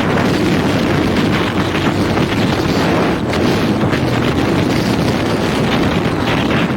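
Heavy wind buffeting on an unshielded microphone, its wind sock lost, over a dirt bike engine running steadily under way, most likely the Husqvarna 501's single-cylinder four-stroke.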